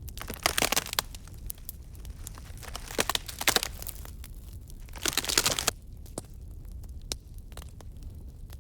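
Wood campfire crackling with scattered sharp pops, swelling three times into louder bursts of dense crackle and hiss: about half a second in, around three seconds in and just after five seconds, each lasting under a second.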